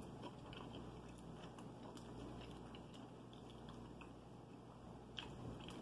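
Faint chewing of a mouthful of biscuit, with small scattered mouth clicks.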